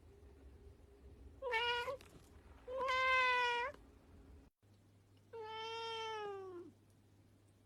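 Domestic cat meowing three times, the third meow longer and dropping in pitch at its end.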